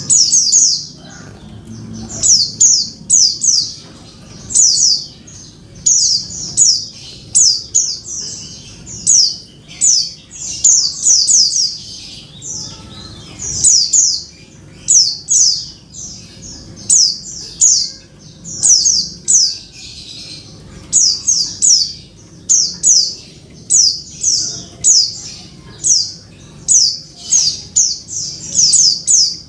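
Female white-eye (pleci) calling to draw a male: rapid, high, short notes that sweep downward, given in quick clusters again and again.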